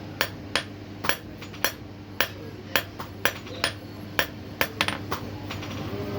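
A hand hammer striking metal on an anvil in a steady forging rhythm, about two blows a second with a few quick double taps, over a steady low hum.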